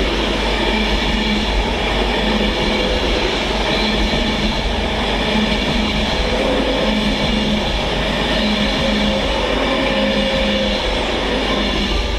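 Class 390 Pendolino electric train passing slowly, a steady rumble of wheels on rail with a faint hum running through it.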